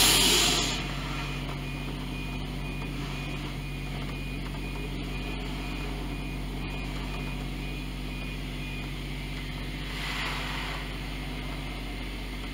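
Car engine idling steadily, heard from inside the cabin as a low, even hum. A louder rush of noise dies away within the first second, and a brief hiss swells about ten seconds in.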